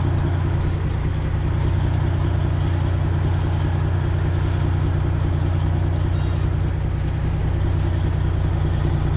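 12.7-litre Detroit Diesel engine of a Freightliner Classic XL semi truck running steadily at low speed while it backs, with a brief high chirp about six seconds in.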